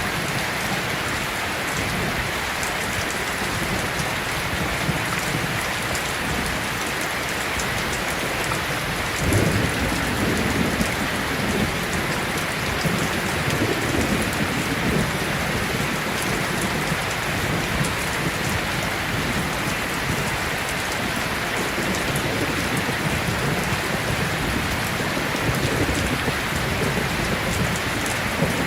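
Steady heavy rain falling, with a low rumble of thunder coming in about nine seconds in and rolling on under the rain.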